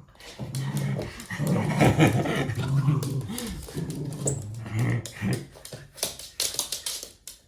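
Red toy poodle making playful vocal noises, long low sustained sounds broken by short pauses, with scuffling and tapping clicks near the end.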